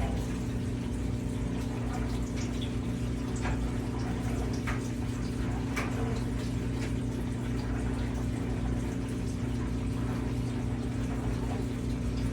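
Kenmore Series 100 HE top-load washing machine draining its wash water, its drain pump running with a steady hum under the sound of water, and a few faint ticks.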